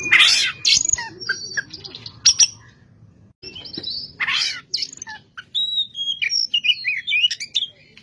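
Oriental magpie-robin singing a varied run of whistled phrases, broken by two harsh, rasping notes, one right at the start and one about four seconds in, with a brief pause just before three seconds.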